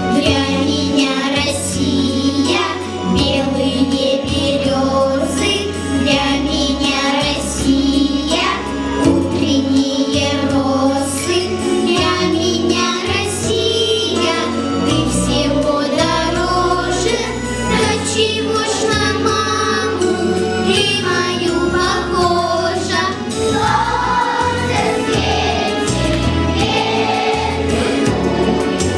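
A children's choir singing a song in unison over an instrumental accompaniment with a steady bass line.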